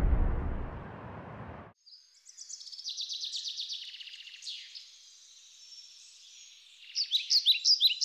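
A deep boom dies away in the first second and a half. Then birds sing: a run of high chirps and trills, and from about seven seconds in, quick repeated loud chirps.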